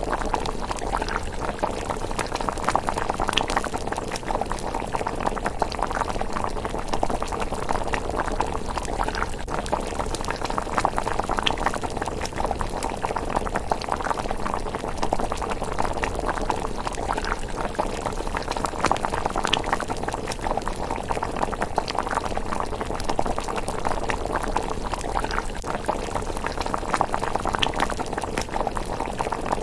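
Pot of miso rice porridge simmering: a steady, dense bubbling, with a few sharp crackles from the wood fire every few seconds.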